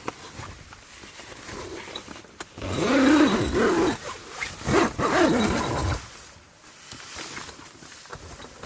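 An animal's loud calls, two bouts with a wavering pitch about three and five seconds in.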